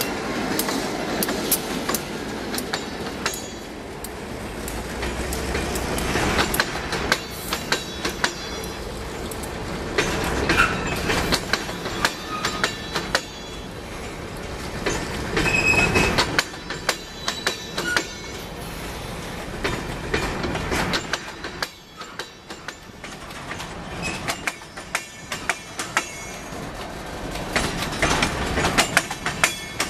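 Loaded grain train of covered hopper cars rolling past close by, the wheels clicking over the joints of jointed rail, with a few short high squeals. The locomotive's low engine rumble fades in the first few seconds.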